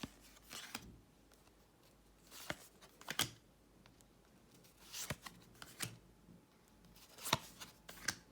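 Tarot cards being handled one at a time: short, light slides and slaps of card on card, a handful of them a second or two apart.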